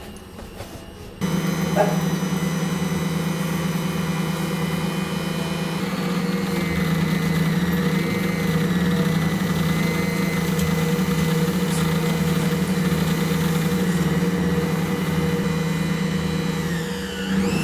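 An electric appliance motor switches on about a second in and runs with a steady, loud hum. Near the end its pitch dips and then rises again.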